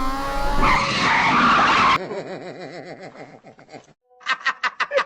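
A vehicle revving up, rising in pitch, then a loud tyre screech that cuts off abruptly about two seconds in. A wavering tone fades after it, and rapid rhythmic ticking starts near the end.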